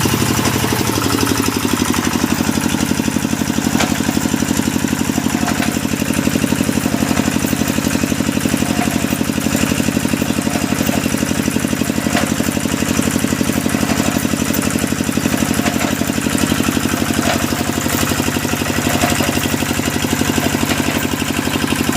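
Engine of a hydraulic deep-well drilling machine running steadily at a constant speed, its tone shifting slightly about a second in.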